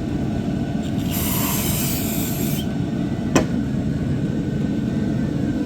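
Aerosol brake cleaner sprayed into the oil filter housing: one hissing burst of about a second and a half, over a steady low rumble. A single sharp click follows about a second later.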